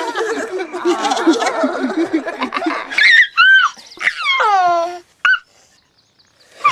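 Cartoon characters giggling and laughing together, followed by a few high-pitched, falling squeaky calls. It breaks off about five seconds in, with one short squeak just after.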